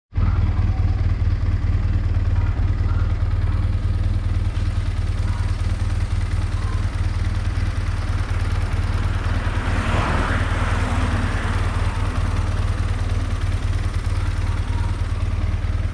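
BMW R1200GS flat-twin motorcycle engine running steadily. A broad hiss swells and fades about ten seconds in.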